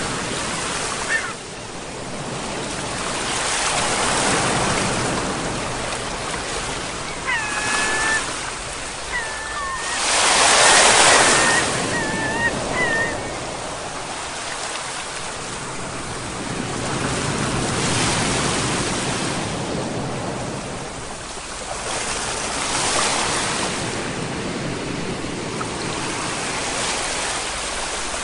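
Ocean waves breaking and washing on a shore, swelling and falling back every few seconds, with the loudest surge about ten seconds in. A few short high calls sound over the surf around the middle.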